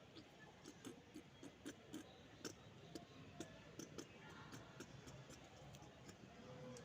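Faint, irregular clicking and ticking, as of budgerigars pecking and cracking seed or working their beaks and claws about the cage, with a few soft chirps.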